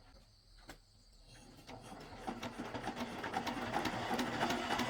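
Rapid mechanical clatter, a dense run of fine ticks that builds in level from about two seconds in, after a single click near the first second.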